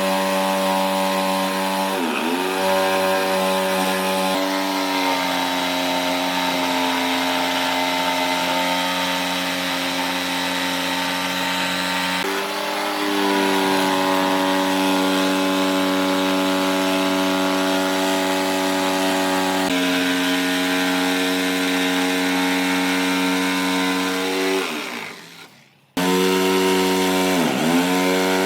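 A power tool's motor runs steadily, its pitch shifting between a few speeds and dipping briefly a few times as it bogs under load and recovers. It fades out near the end, then starts again abruptly.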